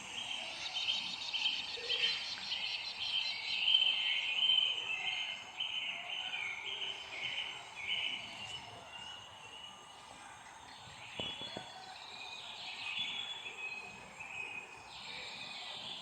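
Birds chirping: many short, quick high notes repeated in runs. The chirping is busiest for the first eight seconds or so, then thins out, picking up again near the end.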